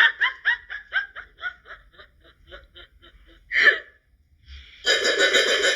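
A person laughing in a run of short, quick 'ha' pulses that slow down and fade over about three seconds, then one louder breathy burst. A steady musical sound comes in near the end.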